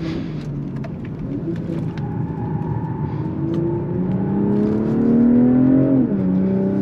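BMW M340i's turbocharged 3.0-litre inline-six engine under track driving: running at part throttle out of a corner, then pulling hard with rising pitch for about two seconds before the revs drop sharply on an upshift near the end.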